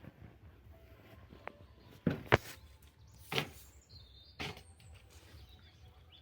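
Four short, sharp clicks or knocks over a low steady rumble, the loudest about two seconds in.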